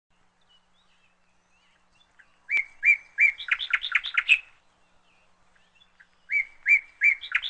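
A songbird singing the same short phrase twice, with a pause of about two seconds between. Each phrase is three separate chirps followed by a quick run of about six notes.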